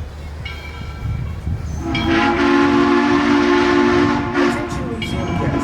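Locomotive horn sounding a long, steady chord blast, a brief break, then a second blast, over the low rumble of the train.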